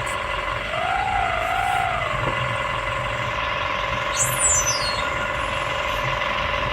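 Excavator running with a steady high whine over a low rumble. The pitch wavers up and down twice about a second in, then settles.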